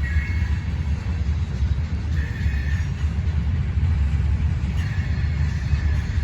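CSX train rolling past with a steady heavy low rumble from its cars on the rails. A faint high-pitched squeal comes and goes a few times over it.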